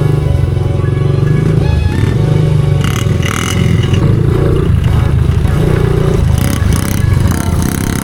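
Small single-cylinder four-stroke pit bike engine running as the bike is ridden, with a brief clatter about three seconds in.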